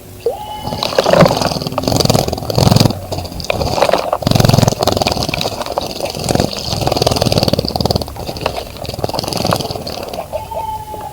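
A small bird bathing in a birdbath, splashing and fluttering its wings in the water in irregular bursts.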